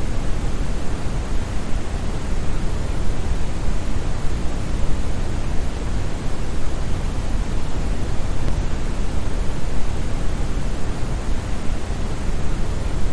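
Steady, unchanging brown noise: a deep, smooth rush with most of its energy in the bass, like a distant waterfall.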